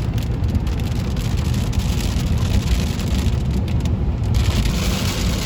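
A car driving through rain, heard from inside the vehicle: a steady low road rumble with rain patter on the car.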